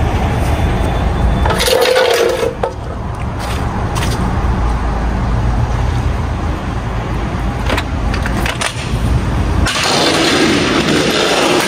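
Truck's diesel engine running at idle, a steady low rumble, with two louder stretches of noise, about two seconds in and near the end.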